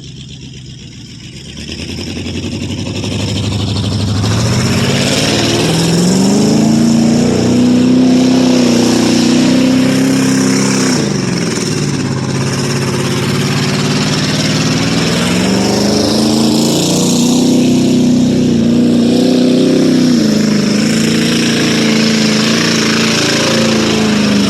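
1995 Ford F-150's 5.8-litre (351) V8 revving hard under load: it climbs to high revs and holds, drops back about halfway through, then climbs and holds again. The owner says the engine has a couple of cylinders that don't fire.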